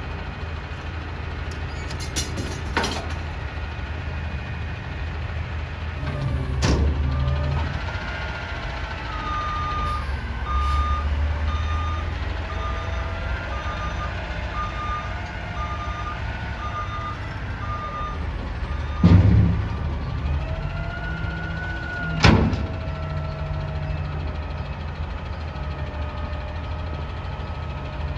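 Peterbilt 320 garbage truck's engine running, with its backup alarm beeping at a steady pace for about ten seconds in the middle as the truck is put in reverse. There are three sharp metallic bangs: one before the beeping starts, and two louder ones shortly after it stops.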